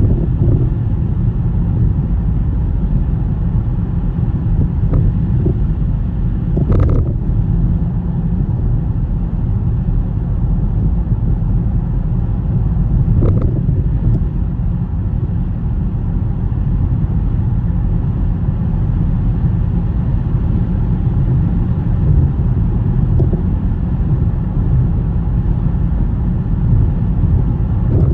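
Steady low rumble of a car driving through a snowstorm: road and tyre noise. Two brief knocks come about seven and thirteen seconds in.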